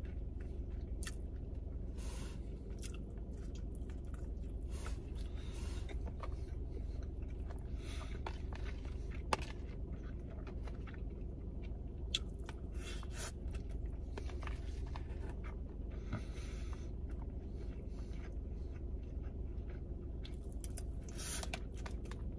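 Close-up chewing and mouth sounds of a person eating white rice and fried egg, with the metal spoon now and then clicking and scraping against a plastic container, over a steady low hum.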